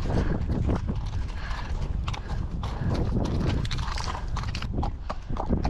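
Horse's hoofbeats, a run of irregular thuds, under heavy wind buffeting the microphone.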